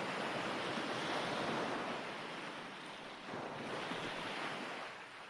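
Recorded ocean surf washing onto a shore as a steady wash of noise. One wave builds and draws back, then a second follows.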